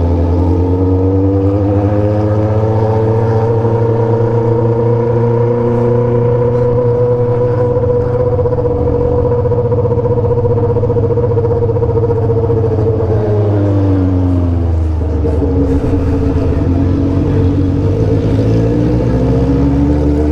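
Motorcycle engines with loud 3-inch aftermarket exhausts on remapped tunes, pulling up through the revs and holding speed. They ease off about two thirds of the way through, then accelerate again.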